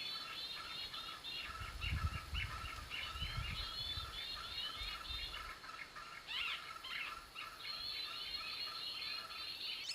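Birds chattering in a dense, continuous run of quick chirps and short calls, with a low rumble of wind or handling on the microphone for a few seconds near the start.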